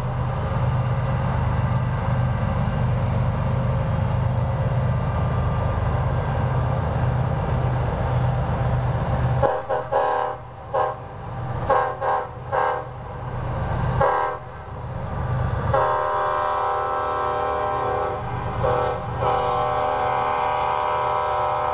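Freight train passing behind diesel locomotives: a heavy low engine rumble, then the locomotive's air horn sounds a chord in several short blasts about ten seconds in and a long held blast from about sixteen seconds on.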